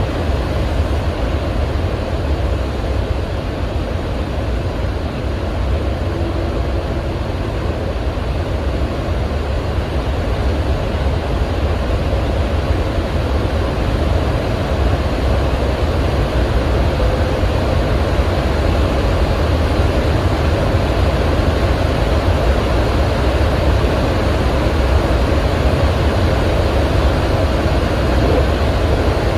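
Steady rumble of a Seibu electric train running, heard from inside the passenger car, growing slightly louder over the stretch.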